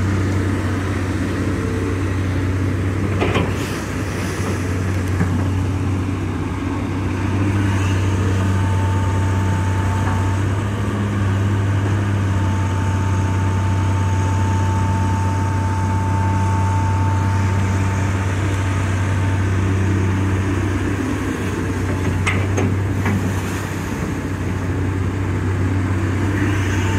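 Hitachi EX200-5 excavator's diesel engine running steadily under working load, with a thin whine through the middle stretch and a few sharp knocks near the start and toward the end.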